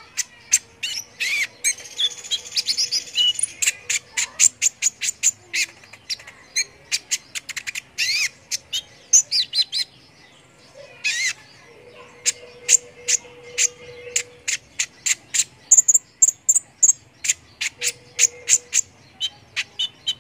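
Small songbirds singing in a dense string of short, sharp, high chirps and quick trills, with a buzzy warble about a second in. A song-training recording of the kind played to contest birds such as sunbirds.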